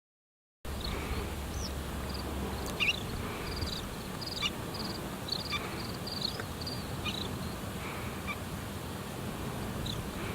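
Small birds calling: many short, high, rapid trills and chirps, with a few sharp ticks, over a steady low background rush. The sound cuts in abruptly less than a second in.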